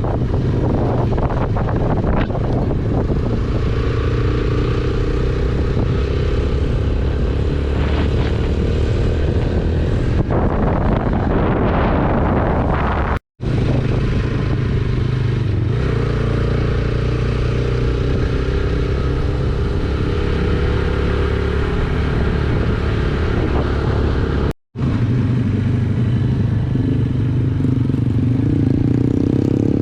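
Yamaha YBR125G motorcycle's single-cylinder four-stroke engine running steadily while riding, with road and wind noise. The sound drops out abruptly twice, for a moment each time.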